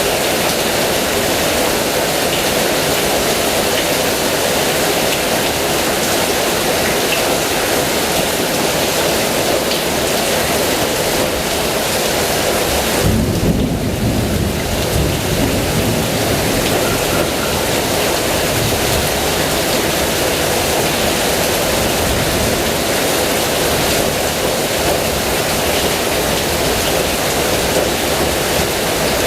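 Heavy rain falling steadily, with a low roll of thunder about halfway through that swells and fades over a few seconds.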